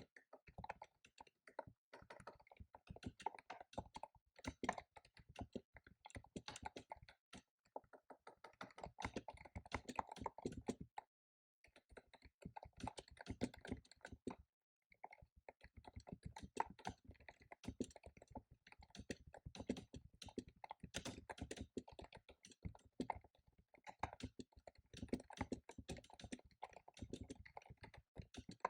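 Fast typing on a computer keyboard: a dense, uneven stream of key clicks, broken by two brief pauses near the middle.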